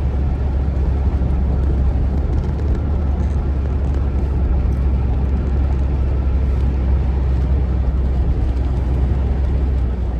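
Steady low rumble of a car driving, heard from inside the cabin: engine and road noise with no change in pace.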